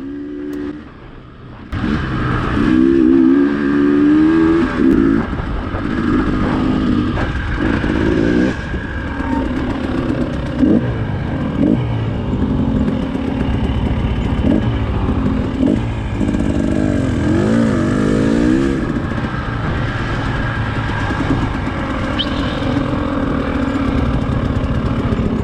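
Two-stroke dirt bike engine being ridden, its revs rising and falling over and over. It comes in loud about two seconds in.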